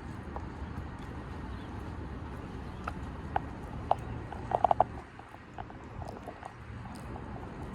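Steady outdoor background noise with a few short, sharp clinks or taps about three seconds in, then a quick run of four or five of them near the middle.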